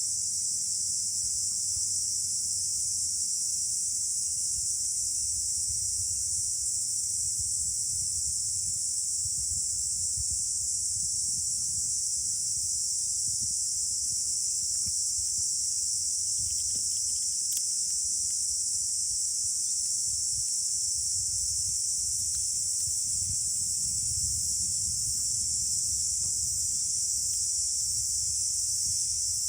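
A steady, high-pitched insect chorus runs without a break, with wind buffeting the microphone in irregular low gusts underneath.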